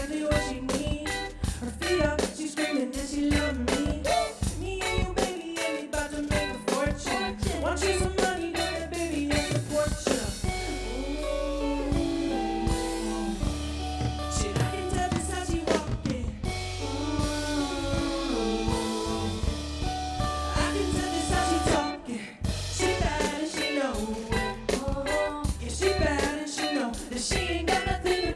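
Live band music, a drum kit keeping a steady beat over a bass line. About ten seconds in the drums mostly drop out under held notes, and the full beat comes back in near the end.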